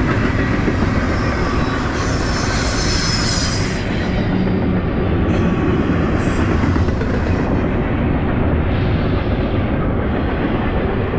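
Double-stack intermodal container cars of a long freight train rolling past: a steady loud rumble of steel wheels on the rails, with a brief high squeal of the wheels about two to three seconds in.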